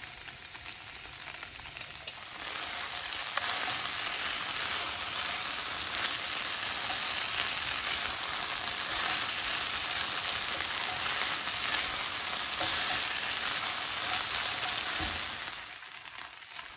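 Sabudana (soaked tapioca pearls) and diced potato sizzling as they fry in a nonstick pan, stirred with a silicone spatula. The sizzle grows louder about two seconds in and drops back near the end.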